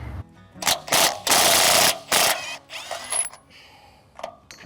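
Several short bursts of ratcheting and clanking metal from hand tools working on the sawmill frame, the longest about two-thirds of a second, then quieter scrapes and a click near the end.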